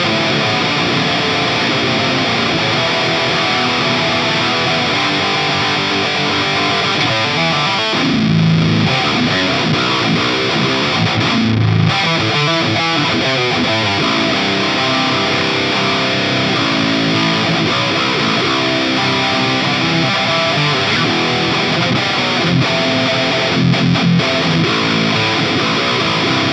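Electric guitar with Fishman humbucking pickups played through a Soldano SLO-100 clone tube amp, pushed by an East River Drive overdrive pedal. It plays a continuous heavily distorted high-gain riff, with heavier low chugs about 8 and 12 seconds in and again near the end.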